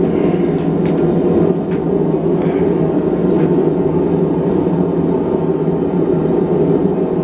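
Blacksmith's forge running with a steady low rushing noise, with a few light metal clicks in the first two seconds.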